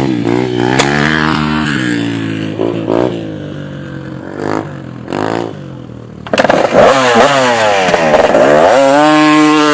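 Dirt bike engines revving, the pitch rising and falling with the throttle. About six seconds in, a bike comes in loud and close, revving hard, then holds a high steady pitch near the end.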